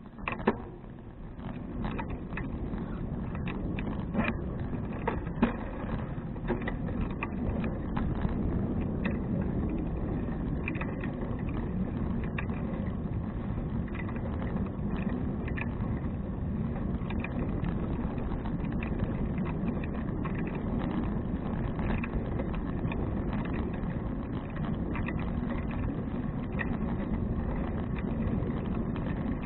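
Wind rushing over an action camera's microphone, with tyre and road noise, as a touring bicycle gets moving and rolls along. Scattered clicks and rattles come from the bike. The noise builds up from quiet in the first second or two, then stays steady.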